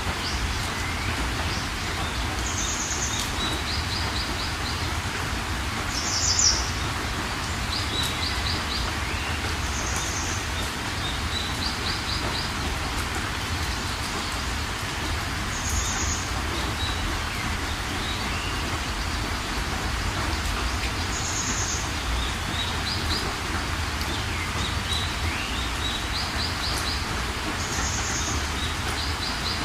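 Steady rain with birds singing over it: a short high call repeats every four to six seconds, alternating with quick rattling runs of notes.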